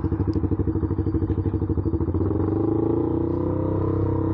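Motorcycle engine running with its slip-on muffler missing, very loud through the open exhaust with a fast, even pulsing beat. A little past halfway the revs rise slightly and the beat smooths out.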